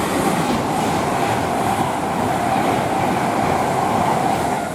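Container freight train's wagons rolling past on the rails: a steady, loud rumble and clatter with a steady tone above it, easing slightly near the end.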